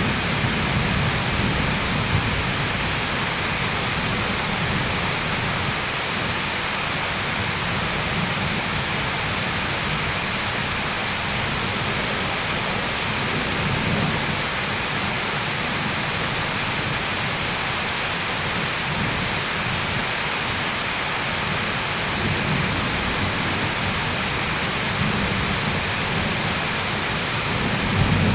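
Steady heavy rain hissing, with low thunder rumbling now and then and a slightly louder rumble near the end.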